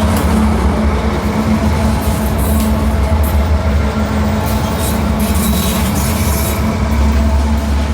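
Diesel freight locomotive and train running by, with a steady low engine drone and intermittent high-pitched squealing and clatter from the wheels on the rails.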